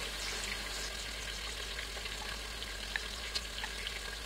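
Masala of onion, yogurt and spices frying in oil in a pan on a gas flame: a steady sizzle with faint scattered crackles.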